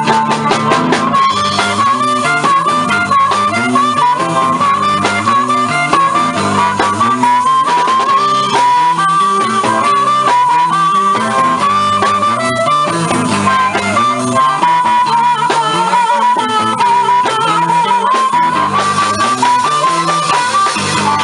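Live blues band playing an instrumental break: a harmonica lead over a repeating guitar shuffle.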